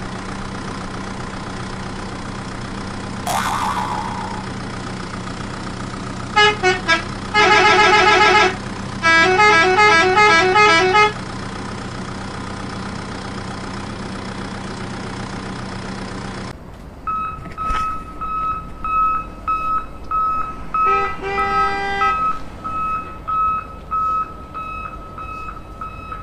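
Horn tooting in rapid repeated notes for about five seconds over a steady engine-like hum, with a short rising swoosh before it. The hum stops suddenly after about 16 seconds, and pulsing electronic beeps follow.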